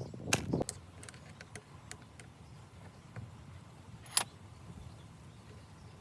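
Small parts and tools being handled during small-engine repair work: a few sharp clicks and knocks, the loudest just after the start and about four seconds in, with lighter ticks between.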